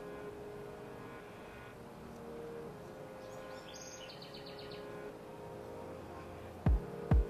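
A small bird's quick chirping trill about three and a half seconds in, over a faint steady background. Near the end come two loud, deep thumps like a kick drum.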